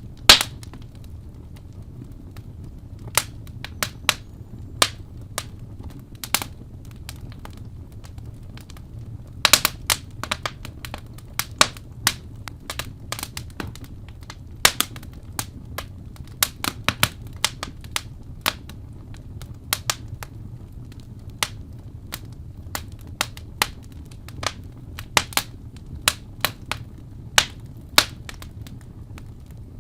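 Wood fire burning in a fireplace, crackling and popping irregularly over a low steady rumble, with a few sharp loud pops.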